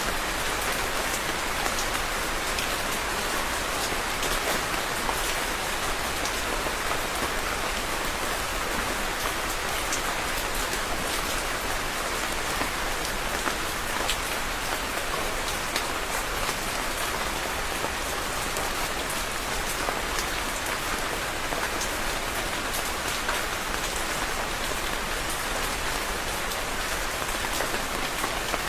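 Steady rain falling and pattering on a surface, an even hiss dotted with many small drop ticks.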